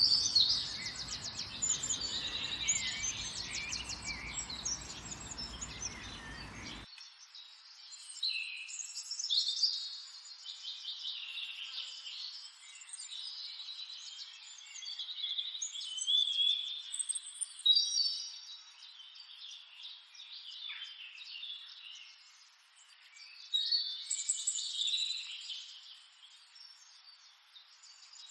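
Several songbirds singing and chirping at once, with overlapping short trills and whistles. A low background rumble under them cuts off abruptly about seven seconds in.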